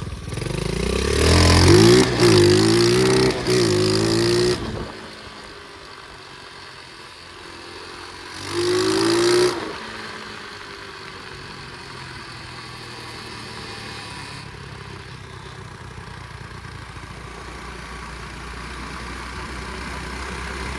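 Flywing pit bike engine revved hard under throttle, its pitch climbing in steps for about four seconds before dropping back to a low run. A second short, sharp rev comes about eight seconds in, then the engine runs low and steady.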